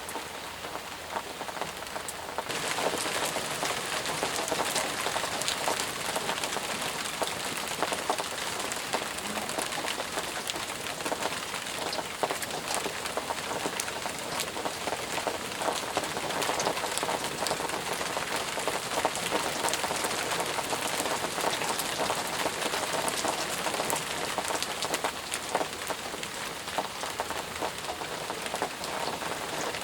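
Heavy rain falling steadily, a dense patter of drops, growing louder about two and a half seconds in.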